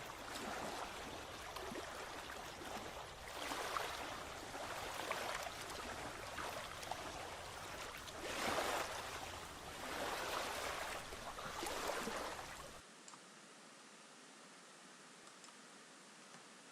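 Rushing water, swelling louder and easing off several times. It cuts off abruptly about 13 seconds in, leaving a faint hiss.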